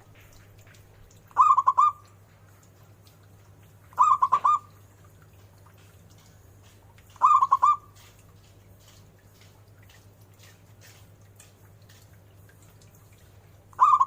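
Zebra dove (perkutut) cooing: three short phrases of quick, rippling notes a few seconds apart, with a fourth starting at the very end. A steady low hum runs underneath.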